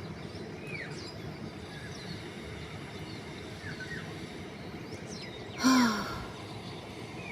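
Steady outdoor background noise with faint, scattered bird chirps. A brief, louder voice-like sound comes in about two thirds of the way through.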